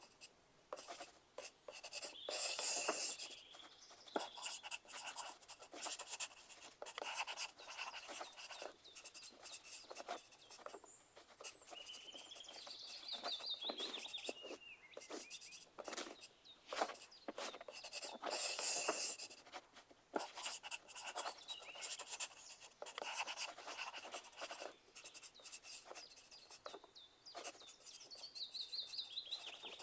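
Pencil writing on paper: quick, irregular scratching strokes that come in bursts with short pauses between them.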